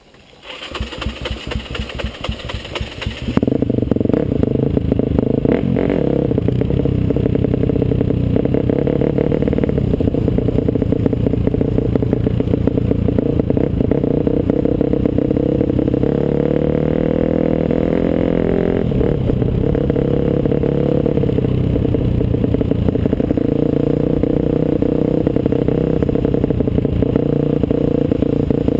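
Off-road motorcycle engine running while riding a trail, quieter for the first few seconds, then loud and steady from about three seconds in. The engine note climbs for a few seconds past the middle and then settles again.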